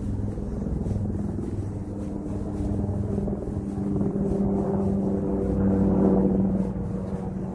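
A steady engine drone with a low hum, growing louder to a peak about six seconds in and then easing off.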